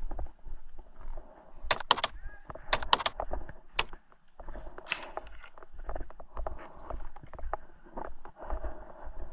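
An airsoft player's footsteps and rattling gear as he moves, with a few sharp clicks between about one and a half and four seconds in.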